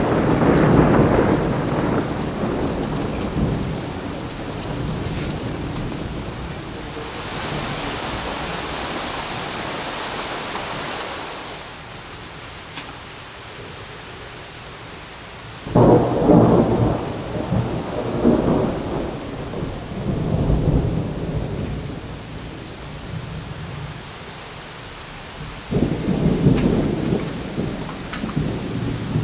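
Thunder over steady rain. A rumble dies away over the first few seconds and the rain hisses louder for a few seconds near the middle. Then two sudden claps, about 16 s and 26 s in, each rolls on as a rumble for several seconds.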